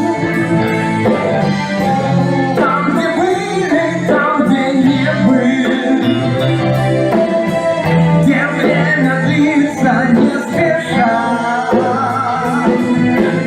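A band song playing: a voice singing over instruments, with a steady beat of short percussive ticks.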